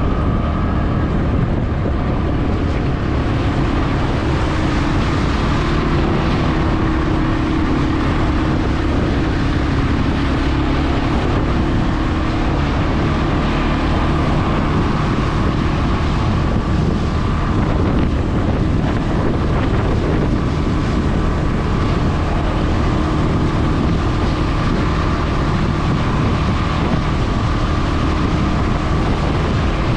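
CFmoto CForce 520 ATV engine running steadily under way, with wind rumble on the microphone.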